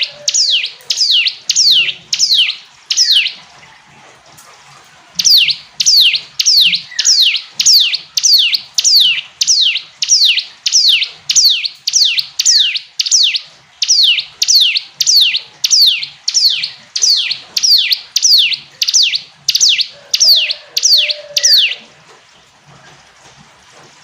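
Ciblek gunung, a prinia, calling loudly in long runs of quick, identical notes, each one sliding down in pitch, about two a second. The runs break off for a couple of seconds after about three seconds and again near the end.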